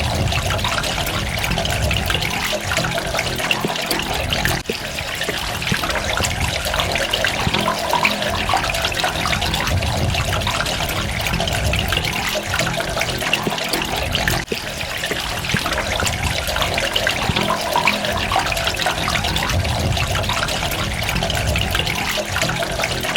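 Running water trickling and splashing steadily, with a dense patter of droplets and a low pulsing rumble underneath. The flow briefly dips in loudness twice.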